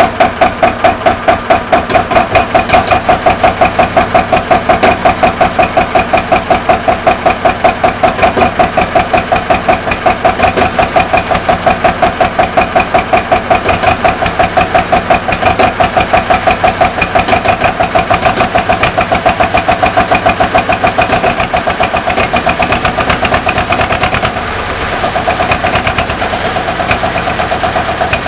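1951 Güldner AF 20 tractor's diesel engine running cold at a steady, even beat after a hard cold start. About 24 s in, the level dips briefly and the note changes, then the engine runs on a little quieter.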